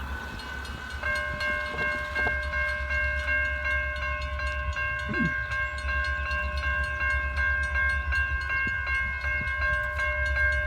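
Railroad grade-crossing warning bells ringing in a quick, even rhythm as the crossing signal activates for an approaching train. A second bell joins about a second in.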